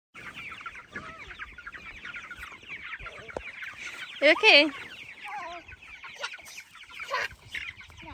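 A flock of chickens clucking and cheeping continuously, many short calls overlapping.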